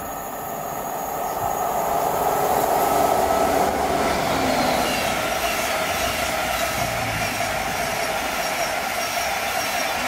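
Virgin Trains East Coast express passenger train passing through at speed. It builds to a loud rush that peaks about three seconds in and holds steady as the coaches go by, with a regular high clicking over it.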